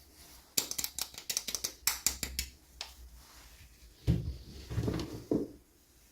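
Hands handling and opening toy packaging. First comes a quick run of sharp plastic clicks and crackles, then a few duller knocks about four seconds in.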